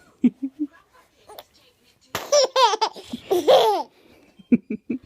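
Baby laughing in bursts during a game of peekaboo, with a run of high squealing giggles about two to four seconds in and a few short ones near the end.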